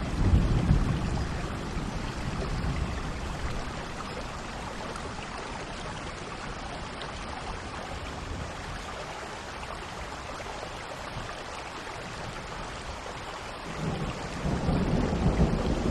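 Steady rain falling, with low rumbles of thunder: one at the start that fades over the first couple of seconds, and another that builds near the end.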